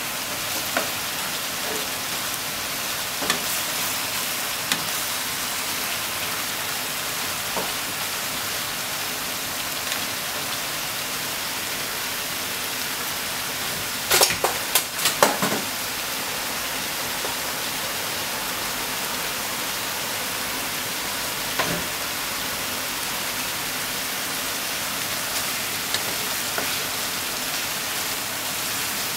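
Sliced eggplant and minced pork sizzling steadily in a frying pan, with occasional taps and scrapes of a spatula against the pan. About halfway through, a short cluster of sharper clatters as the spatula knocks against the pan.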